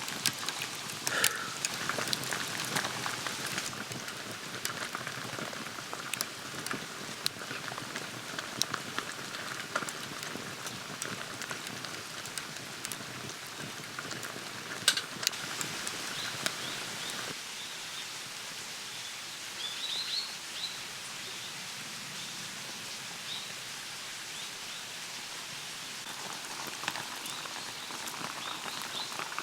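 Food sizzling on a hot iron griddle: a dense crackle with scattered sharp pops, which turns quieter and thinner about two-thirds of the way through.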